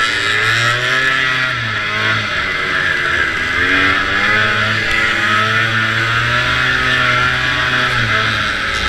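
Vintage racing snowmobile's two-stroke engine running at speed, its pitch rising and falling several times as the throttle changes, under a loud steady rushing hiss.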